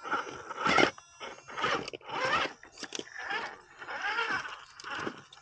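A series of crunching scrapes, about one every half second to second.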